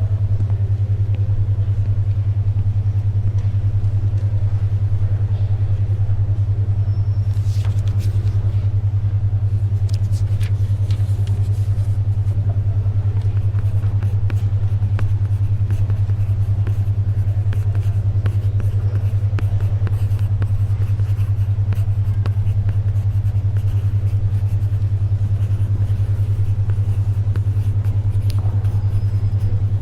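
A steady low humming tone pulsing about ten times a second: a 10.2 Hz alpha brainwave beat. Under it, a faint library ambience with scattered soft clicks and rustles of pages turning and a pencil writing.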